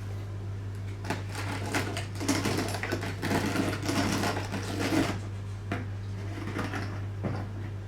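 OO gauge model train running on the layout: a small electric motor whirring with rapid clicking and clatter of wheels over the track, loudest in the middle few seconds, over a steady low hum.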